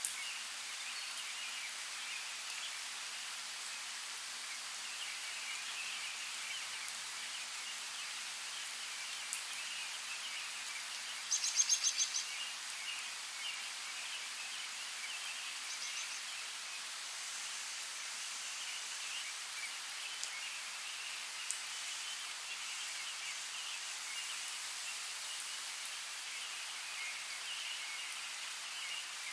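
Steady rain hiss with a dense background of faint chirping. About eleven seconds in comes a short, rapid trill of high chirps, with a brief quieter one a few seconds later and a few scattered drip-like clicks.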